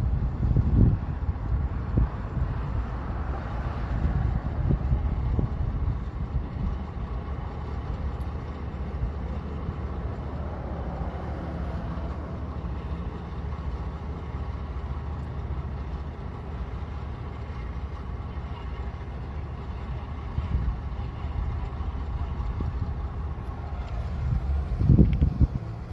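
Steady low rumble of distant heavy machinery engines, with wind gusting on the microphone at the start and again near the end.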